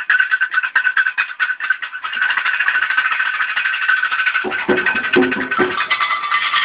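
Candomblé ceremonial music: dense, rapid percussion strokes over a steady ringing tone. A lower pitched part joins briefly about four and a half seconds in.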